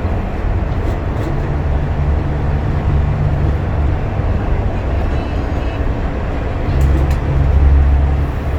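Inside a moving bus: a steady low engine drone over road noise, growing louder about seven seconds in.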